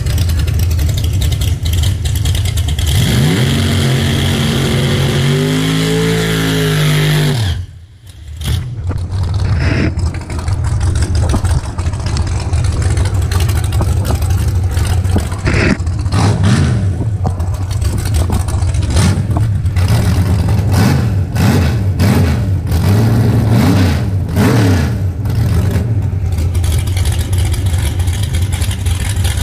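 Race car engines. One engine revs up steadily for about four seconds and then cuts off suddenly. After a brief drop, an engine is blipped up and down over and over above a steady low rumble.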